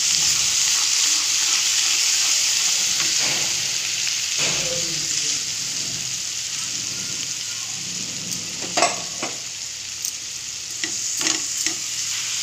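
Ground tomato, onion, ginger and garlic paste sizzling in hot oil in a kadai, the sizzle slowly dying down as a perforated steel ladle stirs it. A few sharp knocks of the ladle against the pan come in the second half.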